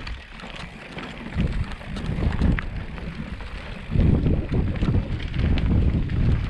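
Wind buffeting the camera microphone in uneven gusts, a low rumble that eases at first and picks up strongly about four seconds in.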